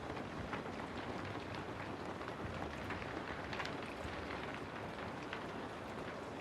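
Steady rain falling on a house: an even hiss with many sharp drop ticks scattered through it.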